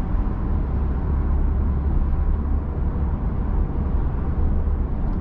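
Steady low rumble of tyre and road noise, with the drone of the Genesis G80's 3.5-litre turbo V6, heard inside the cabin of the car cruising on the expressway.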